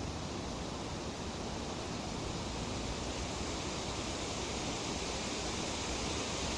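Tree leaves rustling in a steady breeze: an even, unbroken hiss with no separate gusts or other events.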